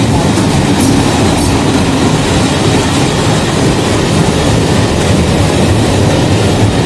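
Indian Railways diesel locomotive and its coaches rolling slowly past close by as the train pulls into the station platform: a loud, steady running and wheel-on-rail noise with no break.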